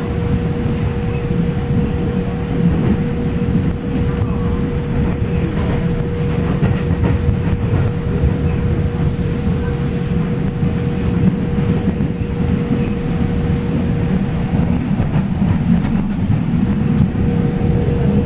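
Train running: a steady low rumble with a constant hum.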